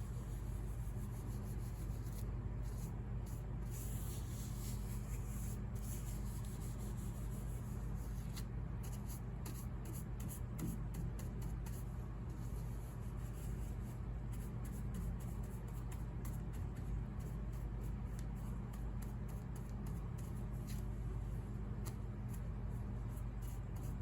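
Faint hand rubbing on the wooden piano case, small irregular scratchy strokes, over a steady low hum.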